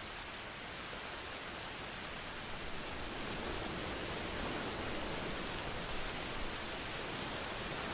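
Heavy steady rain, a dense even hiss that swells slightly about a third of the way in.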